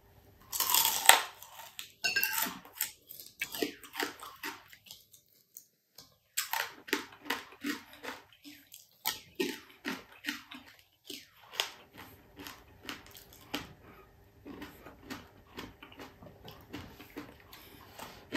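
Crunching and chewing of crispy fried boneless chicken-feet chicharon. A loud crunchy bite comes about a second in, followed by crisp crunches at roughly two a second as it is chewed, with a short pause midway. The crunches are fainter near the end.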